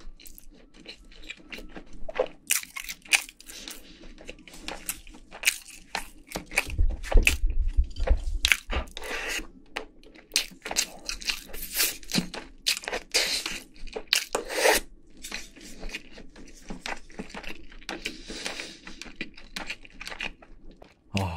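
Close-miked chewing of crispy fried chicken and rice, with irregular crunches and wet mouth clicks. A brief low rumble about seven seconds in is the loudest moment.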